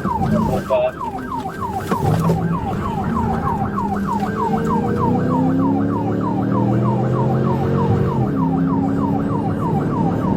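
Police car siren in a fast yelp, its pitch sweeping down about four times a second, over a vehicle engine whose note climbs steadily under acceleration and drops back near the end during a high-speed pursuit.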